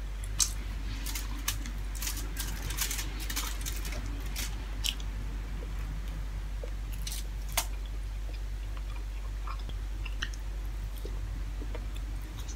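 Close-up chewing and crunching of crisp fried dried fish eaten by hand, with a run of sharp crackles in the first five seconds and sparser small clicks after. A steady low hum runs underneath.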